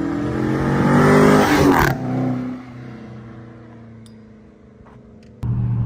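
Dodge Charger accelerating hard, its engine and exhaust note climbing in pitch and getting loud for about two seconds. Then the throttle is lifted and the engine winds down with falling pitch, much quieter. A steady low drone cuts in abruptly near the end.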